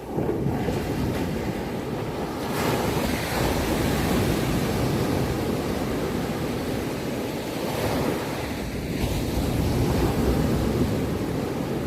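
Ocean surf: waves washing onto a shore in a steady rushing noise that comes in abruptly at the start, then swells and ebbs, fuller about three seconds in and again near the end.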